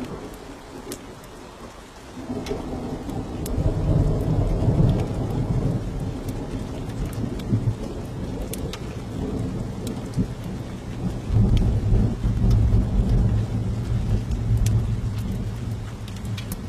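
Thunder rumbling over steady rain, in two long low rolls: one swelling a couple of seconds in, the other starting about two-thirds of the way through. Sparse sharp crackles from a fireplace fire run throughout.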